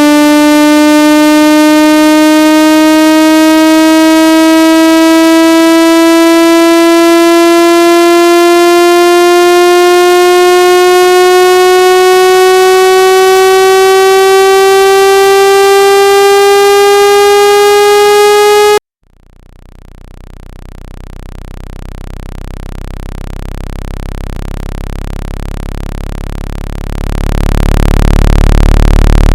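Synthesized water-ejection tone for clearing water from a phone speaker: a loud buzzy tone rich in overtones, slowly rising in pitch, that cuts off suddenly about 19 seconds in. A much lower buzzing tone then fades in and grows louder, jumping up in level near the end.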